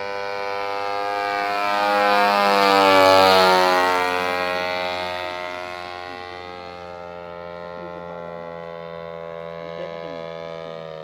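Model airplane's 52cc two-stroke brushcutter engine droning in flight. Its note swells to the loudest about three seconds in and drops in pitch as the plane passes by, then carries on steadier and fainter.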